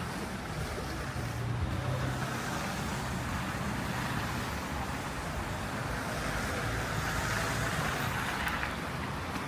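City road traffic: cars running along snowy roads, a steady low engine hum with tyre hiss that swells in the middle as vehicles pass.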